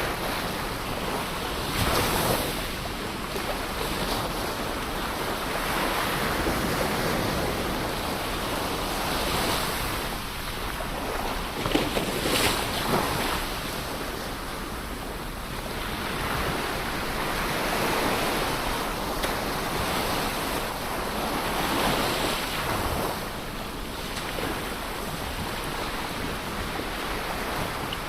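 Ocean waves breaking and washing on the shore, a continuous rushing surf that swells and eases, with brighter splashes as waves crash every few seconds. Light wind on the microphone adds a low rumble.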